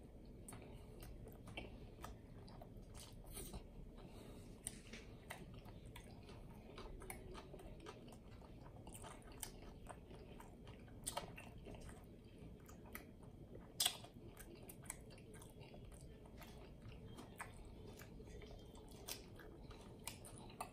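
A person chewing a mouthful of bacon cheeseburger with the mouth closed: soft mouth sounds with many small scattered clicks, and a couple of sharper clicks past the middle.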